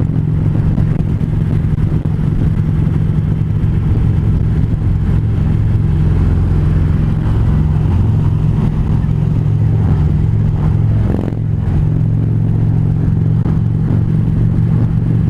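Harley-Davidson V-twin motorcycle engine running at a steady highway cruise, its pitch holding level throughout.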